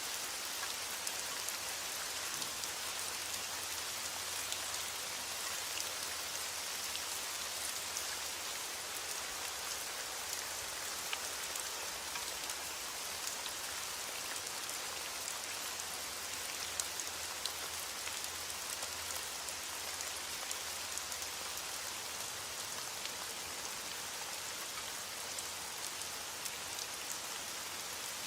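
Steady rain falling on a surface: a dense, even hiss with many individual drops ticking through it.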